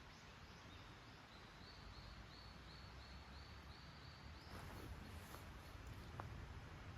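Faint bird call: a series of short, high chirping notes repeated about three times a second, stopping partway through, followed by a couple of faint clicks.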